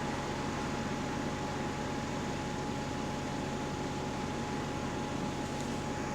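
Steady running noise inside a moving bus, engine and road, with a thin constant whine held at one pitch over it.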